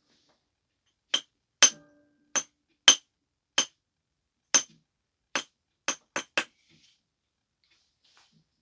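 About ten sharp, clinking percussion strikes on a stone biface during flintknapping, in uneven succession, the last few closer together; one early strike leaves a brief ringing tone.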